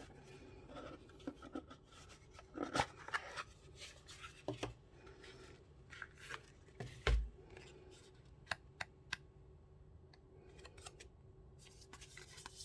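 Handling noises from unboxing a pocket knife: rustling and scraping of the packaging with scattered sharp clicks, and a dull thump about seven seconds in.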